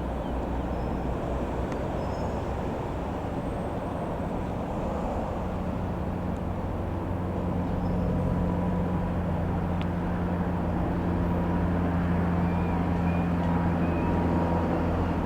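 Robin R3000/140 light aeroplane's single piston engine droning steadily as it flies over, growing louder about halfway through.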